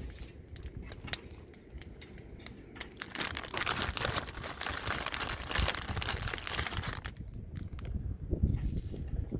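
Crinkling and rustling, like packaging or another crinkly material being handled, densest from about three to seven seconds in, with many small clicks.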